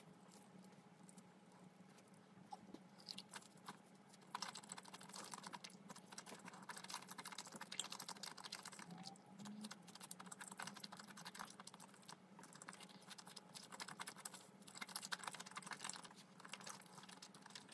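Close-miked chewing of thick breaded, deep-fried pork cutlet (tonkatsu): faint, rapid crackly clicks from the breaded crust, thickening a few seconds in.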